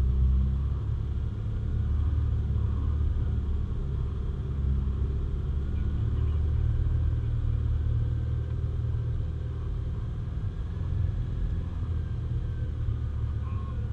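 Four-wheel-drive vehicle on the move: a steady low rumble of engine and road noise.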